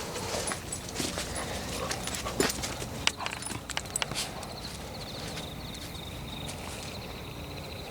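Footsteps crunching over dry leaves and twigs on a forest floor, with many sharp crackles and snaps that thin out after about four seconds. A faint high pulsing trill, like an insect, runs through the middle.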